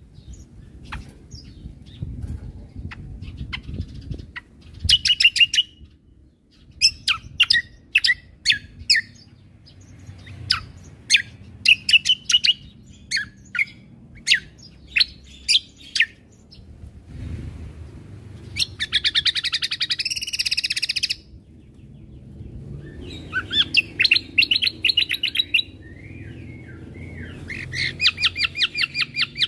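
Cucak kombo (kecial kombo) singing full 'gacor' song: series of sharp high chirps, broken by long rapid rattling trills, the 'tembakan' bursts, about two-thirds of the way in, again a few seconds later and near the end.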